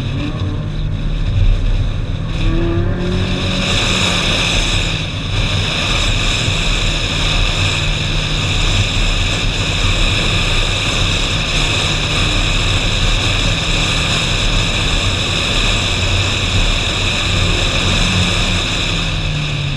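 Ferrari 458 Spider's V8 engine running at a mostly steady pitch while the car drives uphill, with loud wind and road noise on the car-mounted camera's microphone.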